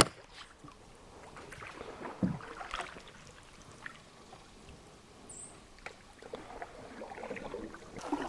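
Canoe paddling on a lake: faint, irregular paddle dips and water splashes against the hull. A single sharp click comes at the very start.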